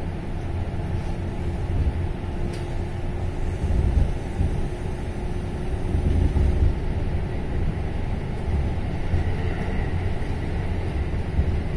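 Running noise inside a Kintetsu electric commuter train car: steady rumble of wheels on the rails and the car body, with a faint motor tone that fades out about halfway as the train slows toward a station, and a faint high whine near the end.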